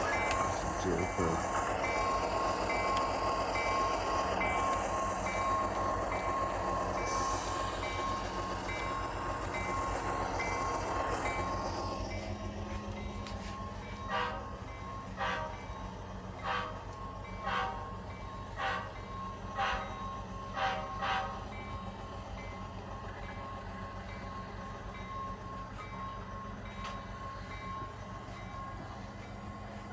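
Sound decoder in an HO-scale GE CW44AH model locomotive playing GE 7FDL16 diesel engine sound through its small speaker, with a repeating pulsed tone over it. After about twelve seconds the engine sound drops back to a lower steady hum. It is then broken by seven short horn toots about a second apart.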